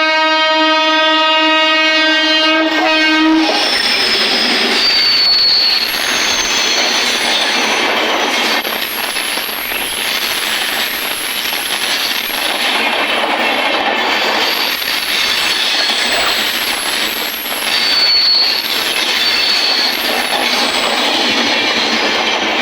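WAP-7 electric locomotive sounding one long horn blast for the first three seconds or so, then the train's LHB coaches rushing past with a dense crackling from the wheels on the track. Thin high-pitched wheel squeals come and go throughout.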